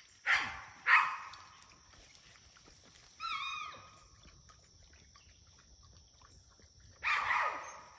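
A dog barking twice, then a short rising-and-falling whine, then one more bark near the end.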